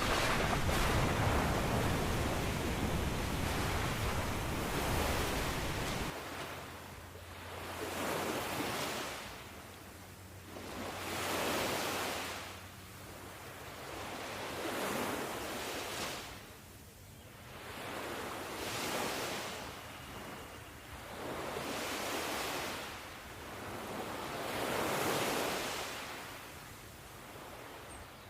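Ocean surf: waves breaking and washing ashore. For the first six seconds it is a steady, dense rush with a deep rumble, which changes suddenly to separate swells that rise and fall every two to three seconds.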